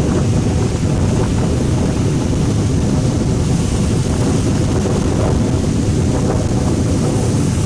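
Steady, loud wind buffeting the microphone of a moving motorcycle, with the bike's running noise beneath it.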